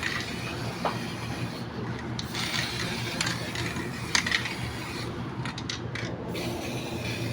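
Steady mechanical hum with scattered light clicks and taps, a few louder ones about four seconds in.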